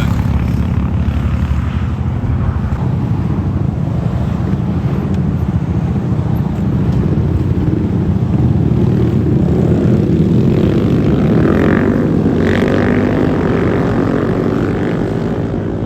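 Small motorcycle and scooter engines running nearby, a steady low drone that swells somewhat about eight seconds in.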